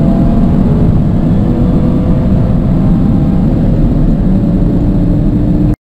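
Car engine accelerating hard through a high gear, its pitch climbing slowly. It cuts off suddenly near the end.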